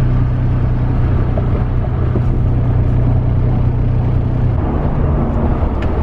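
Pickup truck driving along the road, heard from inside the cab: a steady low engine and road drone that drops lower about four and a half seconds in.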